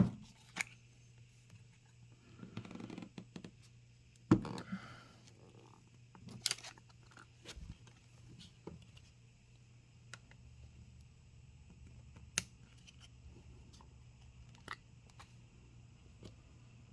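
Scattered sharp clicks and light taps of a plastic pry tool and small tools worked against a phone's glass and frame, with a short scraping sound about two seconds in.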